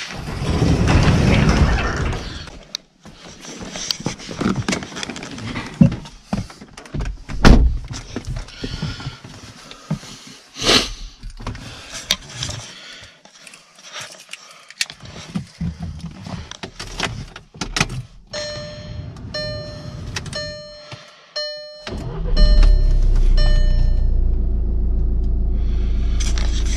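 Getting into and starting a 2012 Volkswagen Jetta SportWagen: scattered knocks and clicks, then the car's warning chime repeating for a few seconds. Near the end the engine starts with a sudden loud rise and settles into a steady idle.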